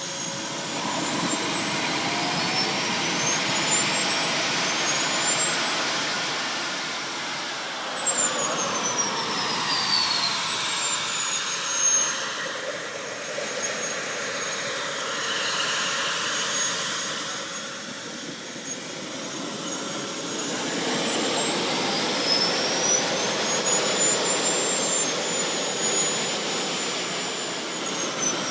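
Model jet gas-turbine engines running, with a high whine over a steady rush. They are throttled up and held, then spooled back down, twice.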